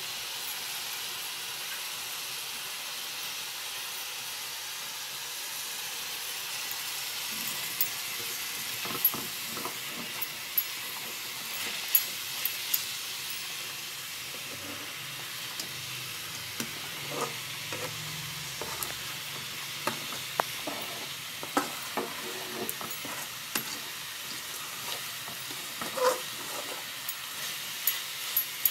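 Prawn heads sizzling as they fry in oil in a metal pan, a steady hiss, while they are stirred with a spatula; from about eight seconds in, sharp clicks and scrapes come now and then.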